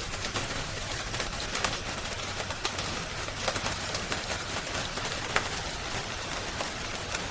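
Wood fire crackling: frequent sharp pops and snaps, the loudest about five seconds in, over a steady rain hiss.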